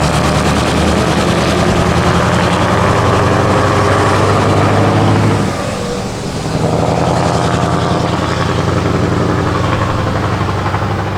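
Scania 164L 480's V8 diesel running loud and steady, dropping off briefly about five and a half seconds in, then picking up again.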